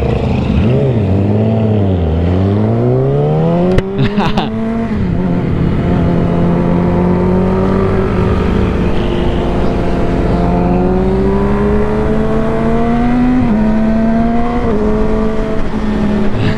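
Yamaha R6's inline-four engine pulling through the gears as the bike is ridden: the revs dip and climb in the first two seconds, a quick-shifter upshift cuts in sharply about four seconds in, then the revs rise slowly and steadily, with two more upshifts near the end. Wind rumbles on the helmet microphone underneath.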